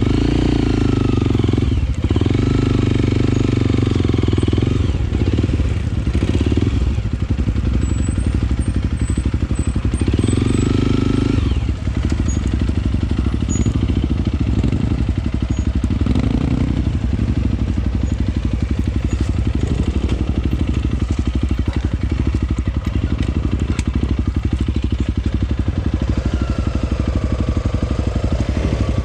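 Honda CRF300L single-cylinder dirt-bike engine running under the rider, with several bursts of throttle where the pitch rises and falls: about a second in, around ten seconds in, and near the end.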